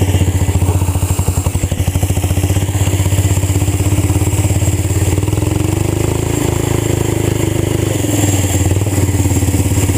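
Old tractor engine running hard through a fully open exhaust, a fast, even stream of exhaust pops. The revs rise briefly around the middle and settle back.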